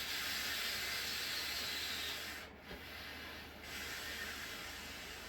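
Air hissing out of the pressure relief valve on a 50-gallon electric water heater as trapped air is bled from the tank so it can fill with water. The hiss is strong at first, cuts off briefly about two and a half seconds in, then comes back weaker.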